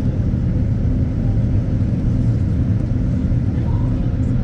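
Boeing 787-9 Dreamliner cabin noise heard from inside the cabin on approach: a steady low rumble of engines and airflow.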